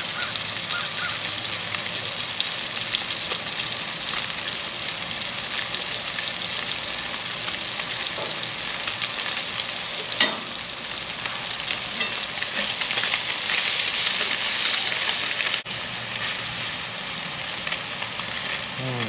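Snapper fillets sizzling in melted butter in a skillet, a steady frying hiss. One sharp tap about ten seconds in; the sizzle swells a little louder, then drops off abruptly near the end.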